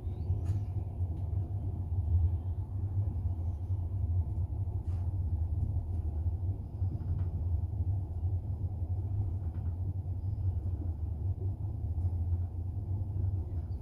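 Steady low rumble of a moving passenger train, heard from inside a double-decker carriage: wheels running on the rails, with a few faint clicks.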